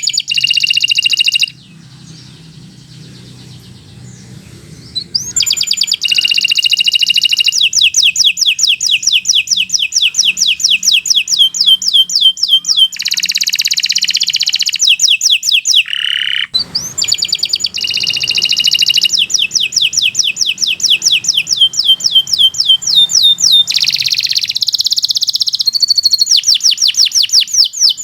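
Domestic canary singing a long song of rolled trills and rapid runs of repeated sweeping notes. The song breaks off for a few seconds near the start, then goes on almost without pause.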